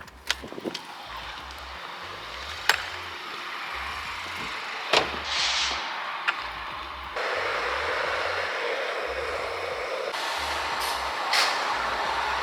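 Road vehicle noise, steady, with a few sharp clicks, a brief hiss about five seconds in, and a step up in level about seven seconds in.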